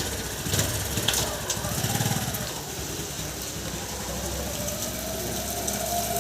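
Vehicle engine running on the move under a steady hiss of wind on the microphone, its pitch rising slowly over the second half as it picks up speed.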